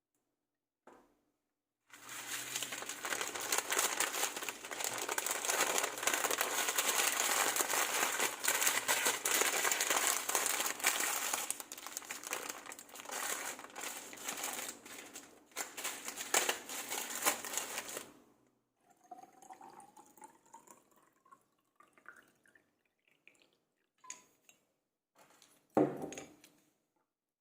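Plastic or paper packaging being crinkled and handled for about sixteen seconds. This is followed by quieter small taps, a faint rising tone, and one short thump near the end.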